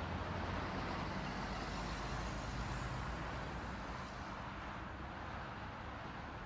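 Steady engine and road noise of a car driving, with a low rumble, easing slightly about four seconds in.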